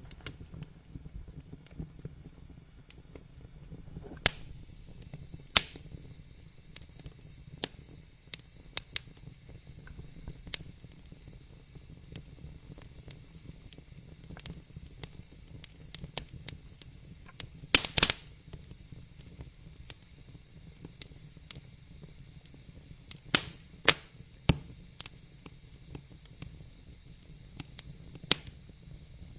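Wood fire crackling in a fireplace: irregular sharp pops and snaps over a low steady rumble, with a few louder pops around the middle and about two-thirds of the way through.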